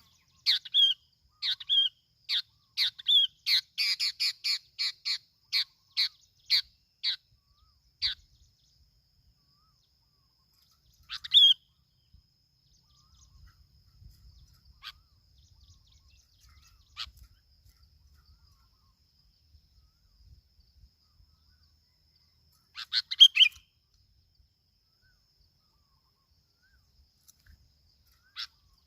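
Bulbul (bông lau) calling: a quick run of sharp chirps for the first several seconds, then scattered single calls and two short bursts of notes later on. A faint steady high-pitched whine runs underneath.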